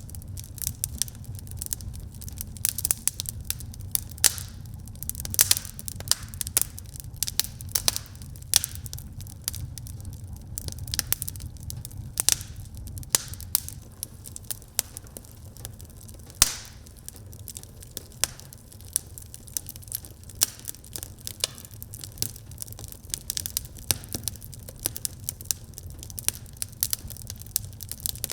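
Wood fire crackling in a fireplace: frequent irregular sharp pops and snaps over a low, steady rumble of the burning fire. One louder pop comes a little past halfway.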